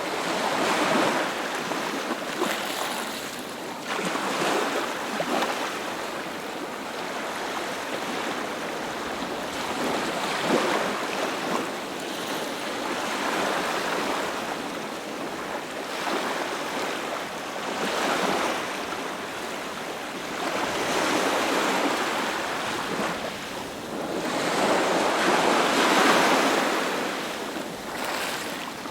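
Sea surf: waves breaking and washing up the shore in surges that swell and fade every few seconds, the biggest one near the end.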